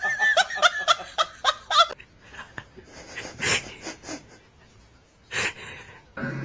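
A person laughing in a quick run of ha-ha bursts for about two seconds, then fainter breathy snickers.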